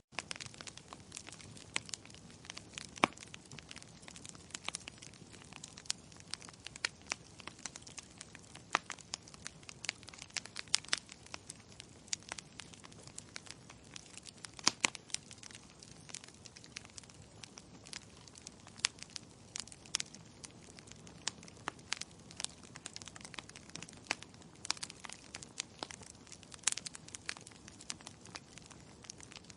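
Wood fire burning in a fireplace: logs crackling and popping in irregular sharp snaps over a soft steady hiss.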